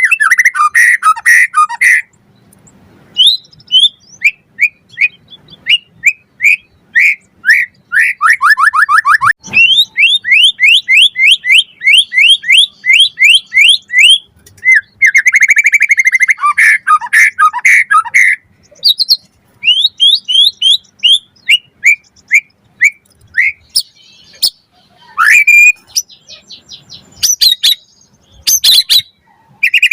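White-rumped shama singing a long, varied song: loud whistled notes, rapid runs of quick repeated notes and trills, and dense warbling passages, with short pauses between phrases.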